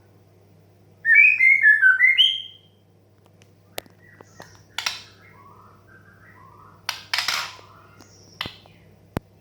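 White-rumped shama calling: a quick run of loud whistled notes about a second in, then softer chirps and two harsh rasping calls, with a few sharp clicks in between.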